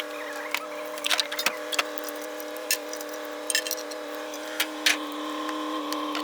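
Metal clinks and rattles of jumper cable clamps and cables being handled, irregular and sharp, over the steady hum of a truck engine idling.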